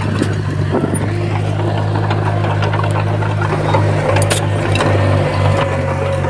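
Bulldozer's diesel engine running steadily under load, a low drone, with scattered metallic clicks and clanks, one sharper about four seconds in.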